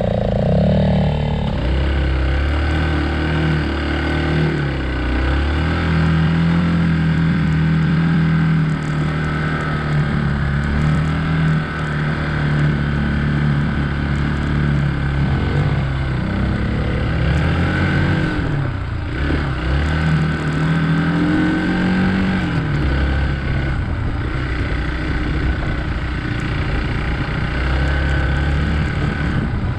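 Hero Xpulse 200 single-cylinder motorcycle engine under way, its revs rising and falling as it is ridden.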